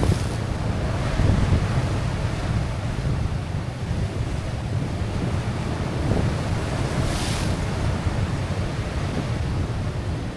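Sea waves washing against a rocky shore, with wind buffeting the microphone; a brief louder hiss about seven seconds in.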